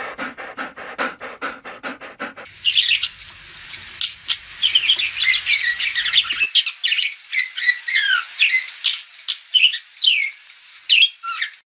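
Budgerigars chirping and warbling: a busy stream of short, high chirps and twitters. It follows a couple of seconds of fast rhythmic pulsing, about five a second, at the start.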